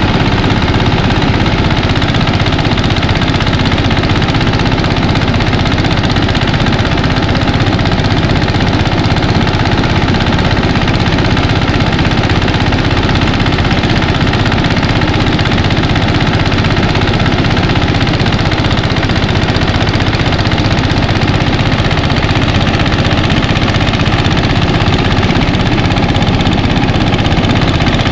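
Mini rice thresher running steadily under its engine, a loud, even machine noise with no change in speed.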